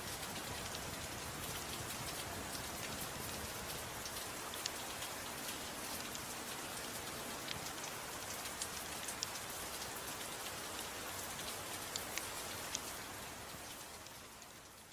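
Steady rain, with scattered sharp clicks over it, fading out near the end.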